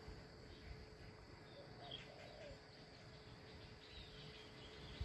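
Near silence: faint rural outdoor ambience with insects and a few short, faint bird chirps.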